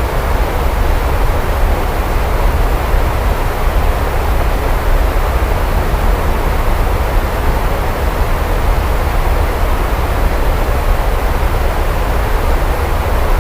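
Steady heavy rain: an even rushing hiss with a deep, continuous low rumble beneath it.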